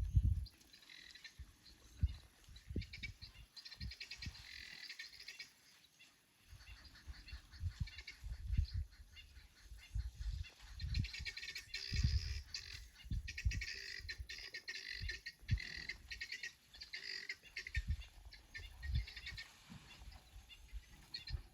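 Birds chirping in fast, pulsing trills, with irregular low thumps and rumbles underneath.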